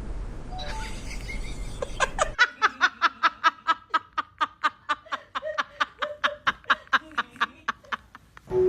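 A person laughing in a long run of short, quick pulses, about four a second, starting about two seconds in.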